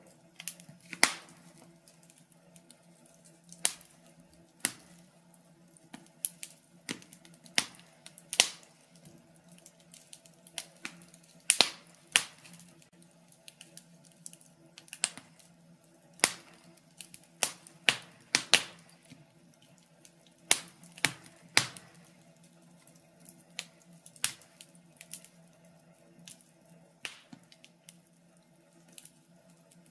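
Wood fire crackling in a fireplace: irregular sharp pops and snaps, a few a second at uneven spacing, over a faint steady hum.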